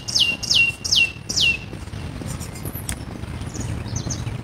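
A bird calling: a quick series of about five high whistled notes, each sliding down and ending on a short steady tone, stopping about a second and a half in. Fainter high chirps follow near the end.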